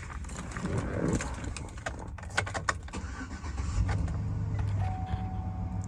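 Keys rattling and clicking in the ignition of a 2007 Chevy Avalanche Z71, then its V8 engine starts about four seconds in and settles into a steady idle. A thin steady tone, like a dash chime, sounds over the idle near the end.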